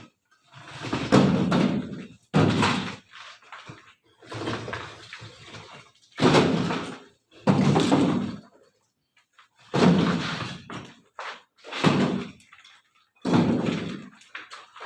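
Heavy thuds and bangs, about ten of them at irregular intervals of roughly one to two seconds, each with a short echo in an enclosed space.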